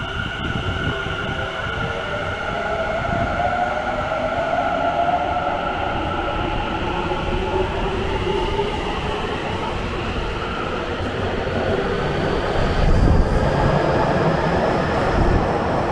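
Electric commuter train in an underground station, its motor inverter whine rising in pitch over the steady rumble of wheels on rail. The sound grows slightly louder toward the end.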